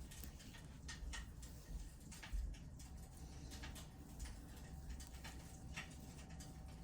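Firewood crackling in a fireplace: irregular sharp pops and snaps over a low steady rumble.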